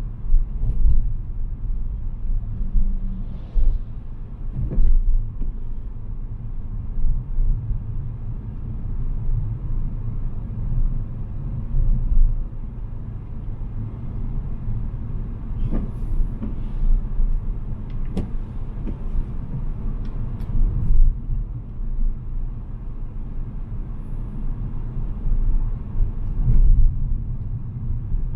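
A car being driven, with a steady low engine rumble and road noise, and a few sharp knocks and clicks scattered through, most of them in the middle stretch.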